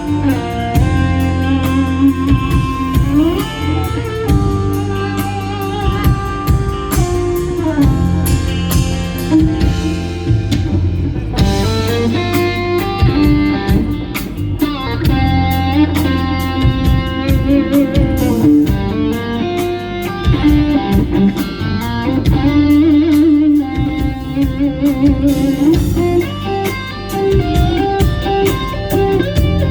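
Live rock band playing a slow instrumental ballad: an electric lead guitar carries the melody with held, bent notes and vibrato over bass guitar and drum kit.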